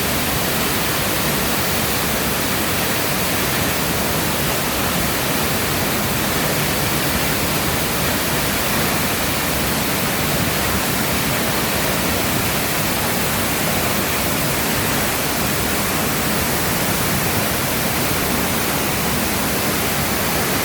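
Waterfall: water falling and splashing, a loud, steady rush of noise with no changes.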